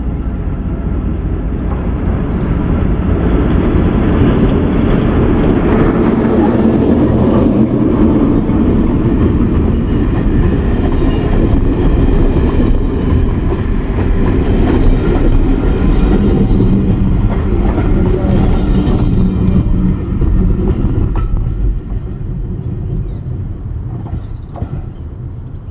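A heritage passenger train of a locomotive and coaches running past close by: a heavy rumble of wheels on the rails that builds over the first few seconds, stays loud as the coaches go by, then fades as the train moves away near the end.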